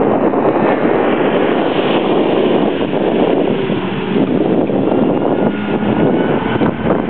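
Mini Cooper's four-cylinder engine running hard as the car is driven through an autocross cone course, its note rising and falling, under heavy wind noise on the microphone.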